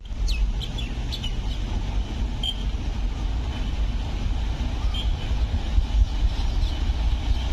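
Steady low rumble of an approaching train, with birds chirping several times in the first few seconds.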